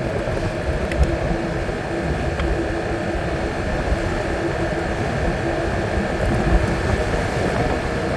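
Yamaha Morphous 250 scooter's single-cylinder engine running at a steady speed under way, a steady hum over low rumble. It is a test ride on fresh oil, and the engine sounds normal.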